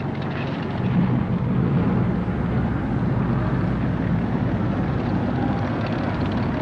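Steady low rumble of vehicle engines, getting louder about a second in and then holding steady.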